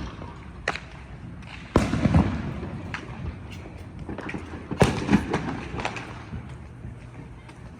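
Fireworks and firecrackers going off around the neighbourhood: scattered sharp bangs at uneven intervals, the loudest about two seconds in and again just before five seconds in.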